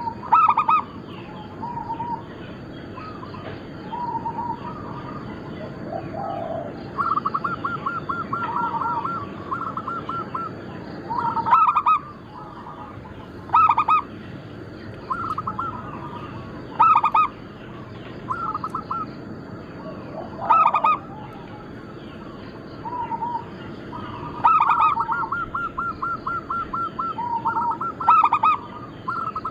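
Zebra doves (perkutut) cooing in repeated phrases. Each phrase has a loud accented note every few seconds, and twice there is a quick even run of rattling notes.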